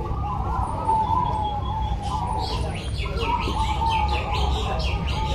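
Many zebra doves (perkutut) cooing at once in overlapping phrases, with a fast run of short, high, falling chirps joining from about two seconds in.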